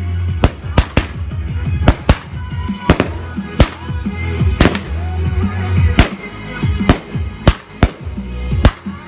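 Fireworks going off in a rapid, irregular string of sharp bangs, over background music with a heavy, steady bass.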